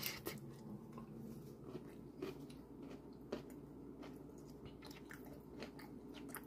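A person chewing a mouthful of pad see ew noodles and steamed broccoli, faint and irregular, with small wet clicks and soft crunches of the broccoli, which is crunchy.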